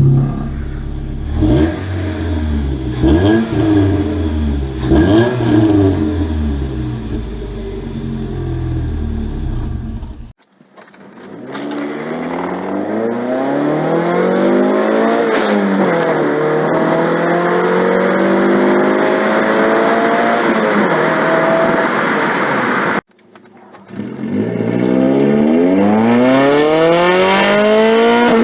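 Exhaust of a 2006 Chevy HHR's 2.4L Ecotec inline-four, with long-tube header, catless downpipe and Cherry Bomb chamber muffler. First it is revved in a few quick blips. After a cut it accelerates hard, its pitch climbing, dropping at a gear change and climbing again. After a second cut there is another hard pull with rising pitch that drops at a shift near the end.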